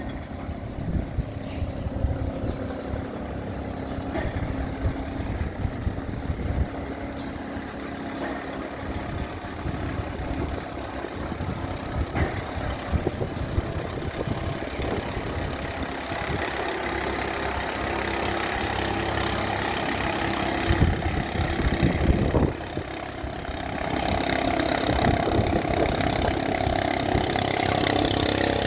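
Thai long-tail boat's engine running steadily; it gets louder and fuller about 24 seconds in.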